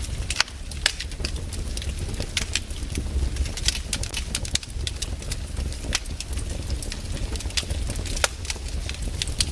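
Wood campfire crackling, with irregular sharp pops and snaps over a steady low rumble of the burning fire.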